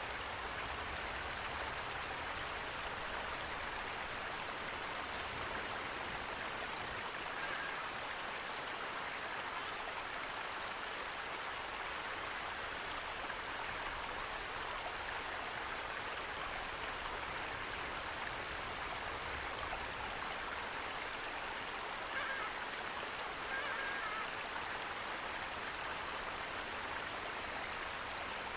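Steady, even rush of running water. A few faint short calls come through about a third of the way in and again near the end.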